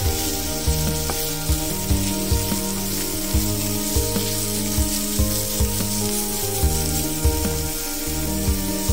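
Grated bottle gourd sizzling as it fries in ghee in a pan, stirred with a wooden spatula. Background music with sustained notes and a steady beat plays over it.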